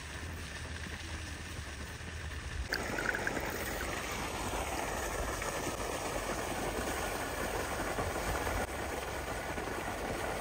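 Steady rush of water gushing from an irrigation pipe outlet into a flooded rice paddy, starting abruptly about three seconds in over a faint low hum.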